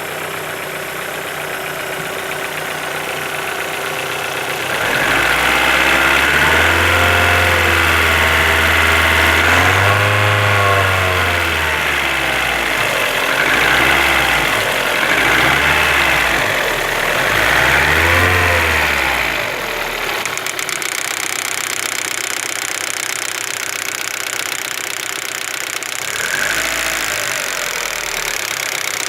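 Vehicle engine idling, then revved up and let fall back about five times in a row before settling to idle, with one short blip near the end. It is being run to find a knock in it.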